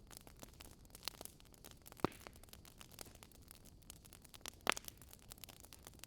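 Wood fire crackling: irregular small snaps over a soft hiss, with two louder pops, one about two seconds in and one later.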